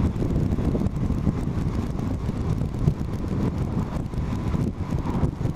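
Wind buffeting the microphone over a motorcycle running along the road: a steady, fluctuating low rush with a faint steady tone above it.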